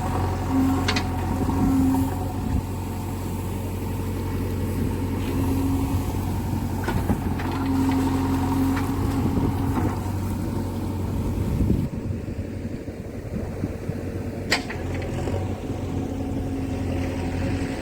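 Diesel engine of a construction machine, most likely a JCB backhoe loader, running steadily, with a few sharp knocks, about three over the stretch.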